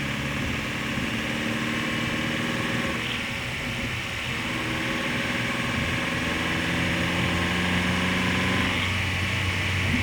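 Nissan Qashqai's 2.0 MR20DE four-cylinder petrol engine running, heard close to its accessory drive, with the pitch of its note shifting a few times. This is the chattering the engine makes under light throttle, which the owner suspects could be engine knock.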